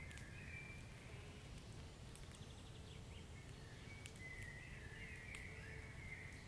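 Wood fire burning in a fireplace: a faint, steady low rumble with a few sharp crackles and pops spread out, and a thin, wavering high whistle that comes and goes.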